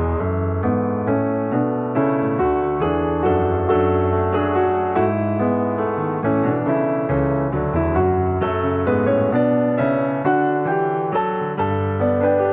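Piano music: notes struck at a steady pace over held low bass notes that change every few seconds.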